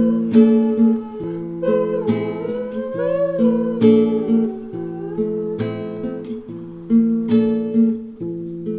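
Background music: a strummed acoustic guitar playing a relaxed chord progression, with a gliding lead melody line over it.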